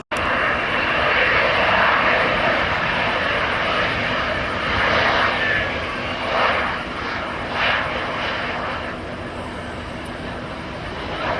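Jet airliner engines running loud, starting abruptly and easing off over the following seconds, with a couple of brief swells about two-thirds of the way through.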